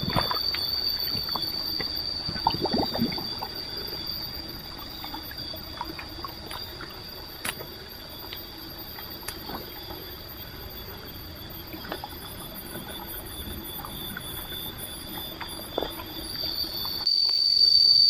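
Steady high-pitched drone of forest insects, with scattered clicks and knocks of something being handled; a cluster of knocks comes about two to three seconds in, and the drone grows louder near the end.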